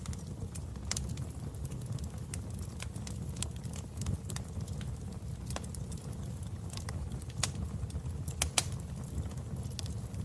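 Wood fire burning in a fireplace: a steady low rumble of flames with irregular sharp crackles and pops, two louder pops coming near the end.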